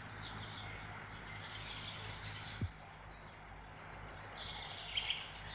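Faint birdsong, short high chirps repeated here and there, over a steady background hiss and low hum, with one brief low thud a little after two seconds in.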